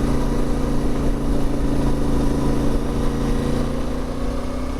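CFMOTO 450MT's parallel-twin engine running at a steady note, its level easing slightly near the end.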